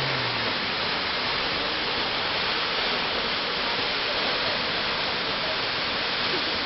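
Steady, even rush of falling water from a waterfall, Bridal Veil Falls.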